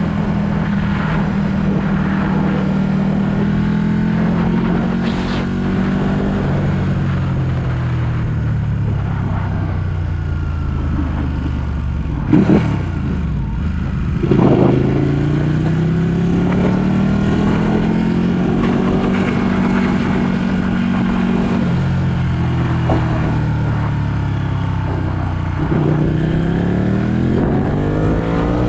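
Ducati 1199 Panigale S's L-twin engine under way, heard from the rider's position. The revs drop about six seconds in, two short sharp bangs come near the middle, and then the revs climb, fall away and climb again near the end.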